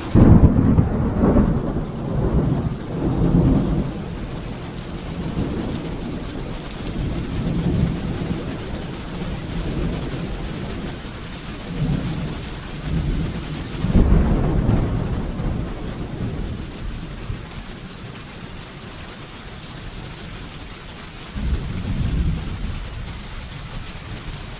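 Steady rain falling through a thunderstorm, with rolling thunder: a sudden loud thunderclap at the start that rumbles on for a few seconds, another strong rumble about fourteen seconds in, and a shorter one near the end.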